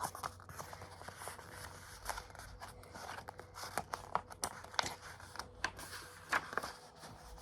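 Faint paper rustling with scattered soft clicks and crinkles: the pages of a picture book being handled and turned.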